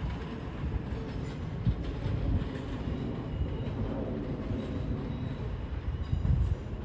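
Southeastern Class 465 Networker electric train running on the track, with a steady rumble of wheels and irregular low clattering over the rail joints.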